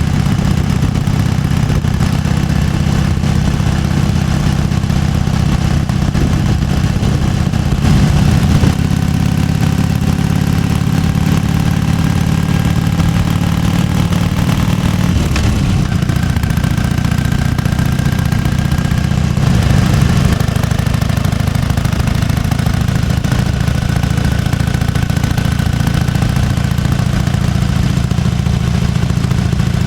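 1998 Harley-Davidson Fat Boy's air-cooled Evolution V-twin idling with its loping potato-potato beat. The engine rises briefly about eight seconds in and again about twenty seconds in, then settles back to idle.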